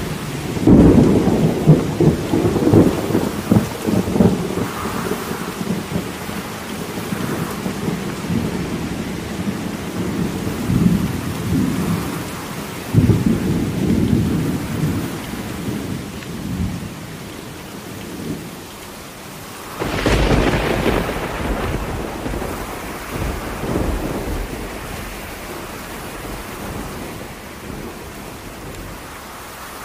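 Thunderstorm: thunder rumbling over steady rain, with a long crackling rumble in the first few seconds, another around thirteen seconds in, and a sharper clap about twenty seconds in that rolls away slowly.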